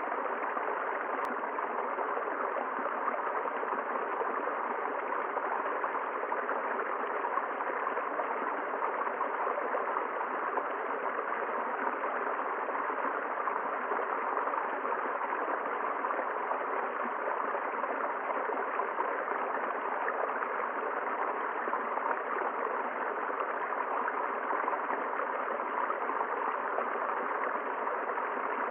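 River water flowing, a steady, even rush with no break or change.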